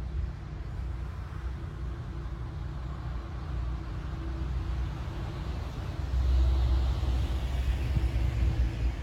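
Steady low rumble of a vehicle running, growing louder about six seconds in.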